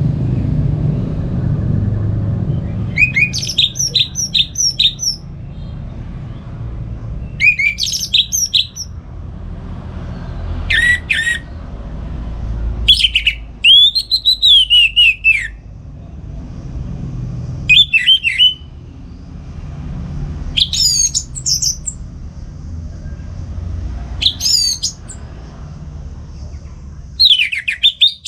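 Orange-headed thrush singing in short, loud whistled phrases, about eight of them, each a second or two long with a pause between. A low rumble runs underneath, heaviest at the start.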